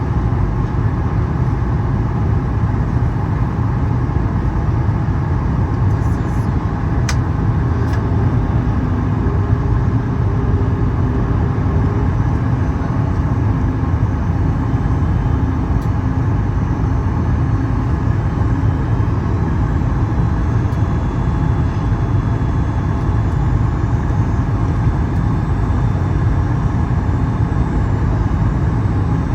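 Steady cabin noise inside a Boeing 737 MAX 8 airliner in flight: the engines and the air rushing past the fuselage make an even, deep rumble.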